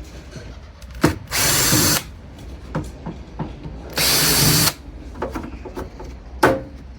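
A power drill-driver with a security Torx bit runs in two short bursts of under a second each, backing screws out of a sheet-metal heater casing. Sharp metallic knocks come just before the first burst and again near the end.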